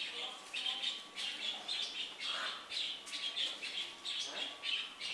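Small birds chirping busily: a quick run of short, high chirps, several a second.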